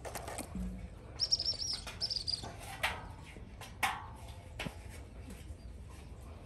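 A small bird chirping: two quick runs of rapid, high chirps, with a couple of sharp knocks a little later.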